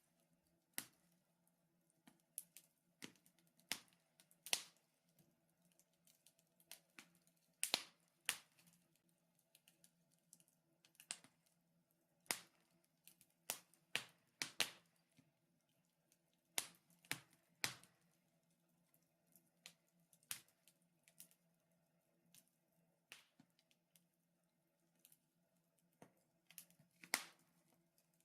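Wood fire in a fireplace crackling, with sharp, irregular pops, some louder than others, every second or so.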